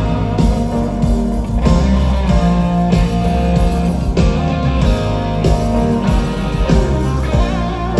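Live rock band playing an instrumental passage of a pop-rock ballad, electric guitar to the fore over bass and drums, with no singing.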